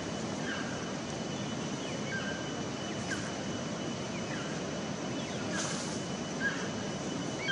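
Outdoor ambience of a steady noisy rush, with short bird chirps about once a second and a faint steady high hum.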